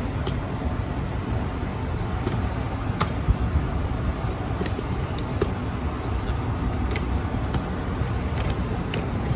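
Vintage Sears ceiling fan running with a steady low rumble of motor hum and moving air, and a few faint scattered ticks. The fan is running out of balance.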